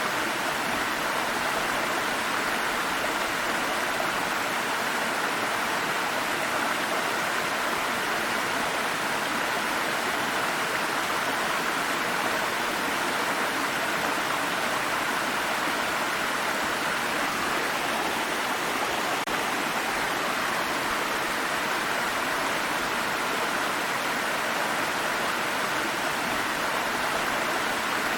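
Water of a small stream flowing and babbling steadily over rocks.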